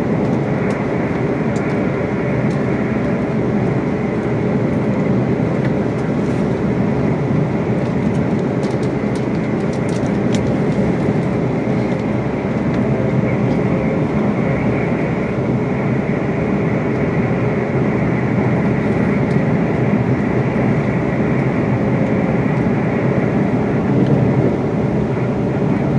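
Steady interior running noise of a Class 350 Desiro electric multiple unit travelling at speed, heard from inside the passenger carriage: wheels on the rails and the train's motion, unbroken throughout.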